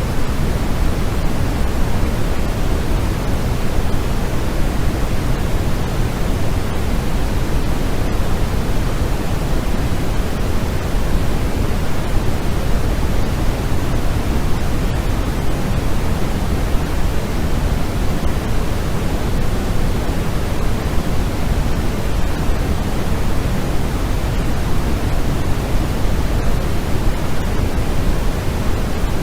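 Steady synthetic sleep noise: an even, unchanging hiss, strongest in the low end and softer toward the treble.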